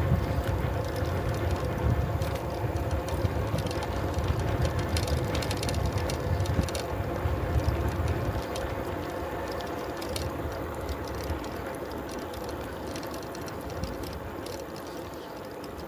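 Bicycle ridden along a road with the rear freewheel ticking rapidly as it coasts, over a low rumble of road and wind on the microphone. The rumble eases off in the second half as the ride slows.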